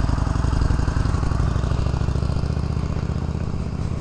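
Harley-Davidson Sportster Iron 883's air-cooled V-twin running at a steady throttle as the motorcycle goes by, growing louder up to about a second in and then slowly fading.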